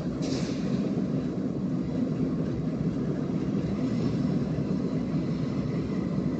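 Train rolling by with a steady low rumble, and a short hiss just after the start.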